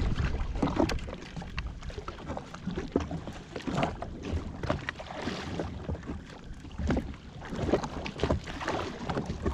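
Water slapping and splashing against the hull of a Yamaha WaveRunner jetski, with uneven knocks and wind buffeting the microphone.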